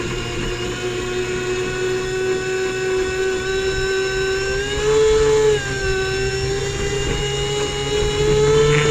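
Airboat engine and propeller running steadily, with a brief rise in pitch about five seconds in that quickly drops back, then a slow climb in pitch toward the end.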